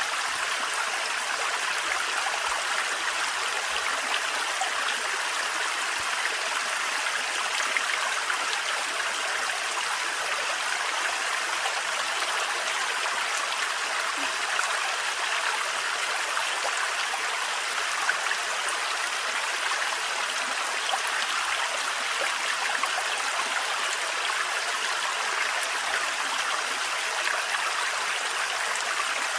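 Thin forest waterfall splashing into a stream, a steady rush of water.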